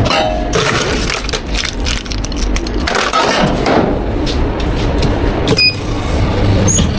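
Drink-shop counter work: a run of clicks and knocks from cups, utensils and containers being handled, over steady shop background noise, with a brief high beep about five and a half seconds in.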